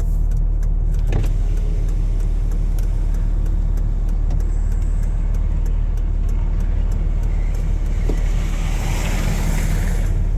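Vehicle engine running with a steady low drone, heard from inside the cab, with faint regular ticking over it. A rush of hissing noise swells near the end.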